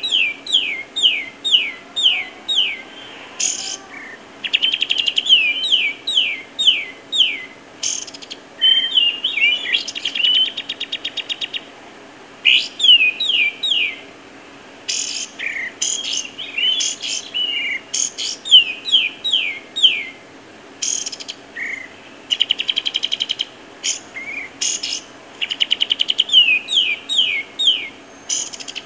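A bird singing: runs of quick, steeply down-slurred high notes, about three a second, alternating with fast buzzy trills, broken by short pauses.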